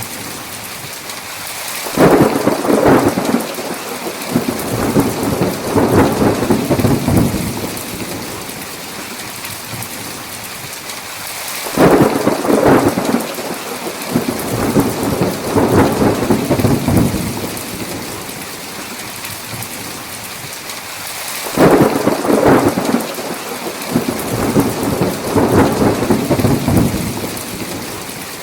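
Thunderstorm: steady heavy rain hiss with three rolls of thunder about ten seconds apart, near-identical in shape. Each starts suddenly and rumbles on in several swells for about five seconds.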